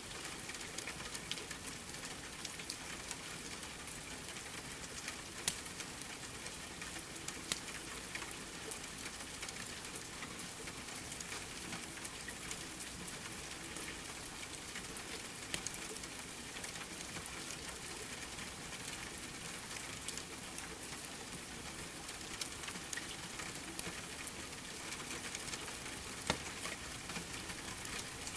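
Steady rain, an even hiss, with the occasional sharp pop of a crackling wood fire.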